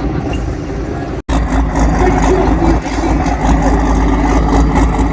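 Loud engine of a competition pulling tractor running hard, with steady low engine tones. An abrupt cut about a second in brings it up louder.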